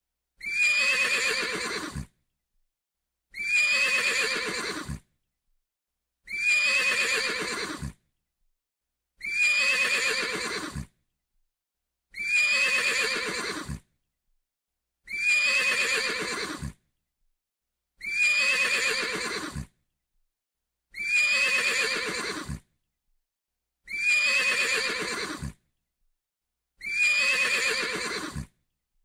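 Horse whinnying, the same trembling call, falling in pitch, repeated ten times about every three seconds. Each call is about a second and a half long and cuts off sharply, the identical repeats of a looped recording.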